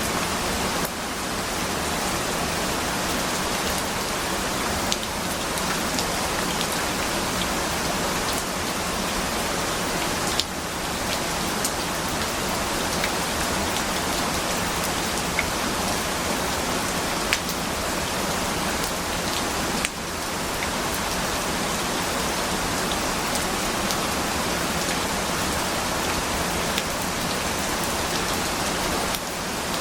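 Steady rain falling on a surface, an even hiss with scattered sharp drip clicks.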